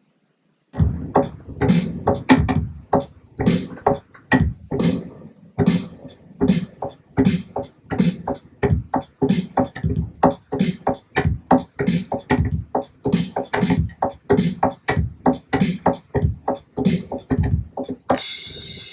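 A programmed live-style drum beat playing back from Logic Pro X: a steady, busy run of kit hits, several a second, which stops shortly before the end as a different ringing sound comes in.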